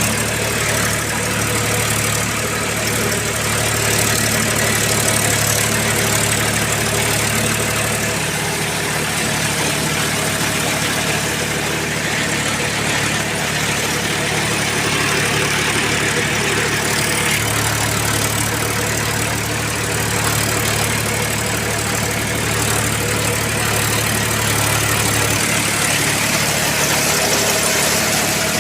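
Powertrac Euro 42 Plus tractor's diesel engine running steadily while driving a rotavator. The low engine note swells and eases a few times.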